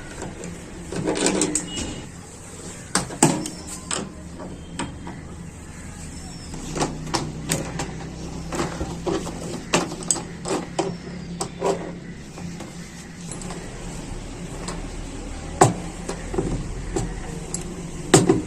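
Irregular metallic clicks and knocks of a tool loosening the shipping nuts that lock a CG washing machine's drum for transport, with a faint steady hum underneath.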